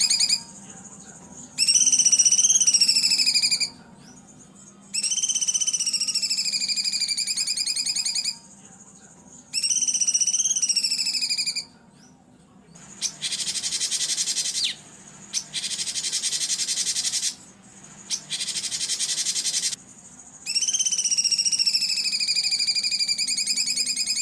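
Songbird masteran recording of loud harsh song phrases, each about two seconds long, repeated with short pauses. Most phrases are fast buzzy trills that dip and rise in pitch. Three phrases midway are rough rasping bursts. A faint steady hum lies underneath.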